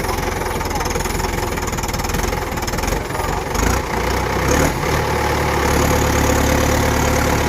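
Tractor diesel engine running at low revs, then revving up and running louder and steadier from about halfway through. A couple of short knocks come near the middle.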